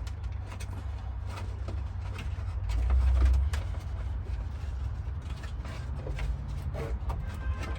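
Scattered light clicks, knocks and creaks of hands working on the truck while a wire is fed through, over a steady low rumble, which swells about three seconds in.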